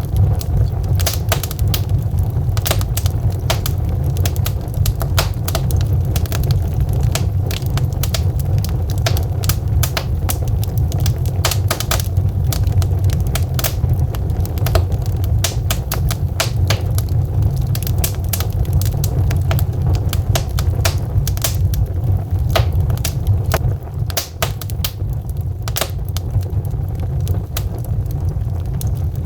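Burning logs crackling, with many irregular sharp pops and snaps over a steady low rumble.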